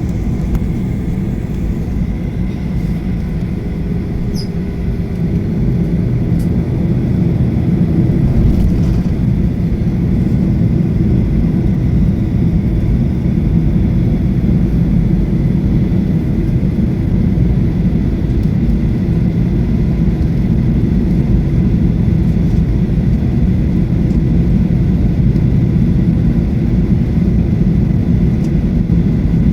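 Cabin noise inside a Boeing 737-800 with its CFM56 engines running: a steady low rumble with a faint steady whine above it, getting a little louder about seven seconds in and then holding level.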